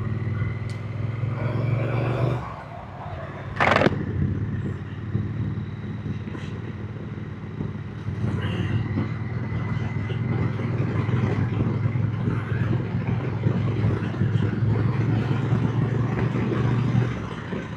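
Triumph motorcycle engine running steadily on the move. Its sound dips briefly between about two and a half and three and a half seconds in, and a short sharp noise comes just after.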